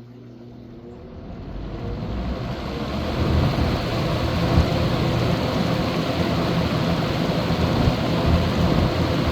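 Vintage Galaxy 20-inch box fan with a plastic-housed 2.2-amp motor starting up straight on high. The motor hum climbs in pitch as the blade spins up, and the rush of air builds over about three seconds. It then runs steadily at full speed.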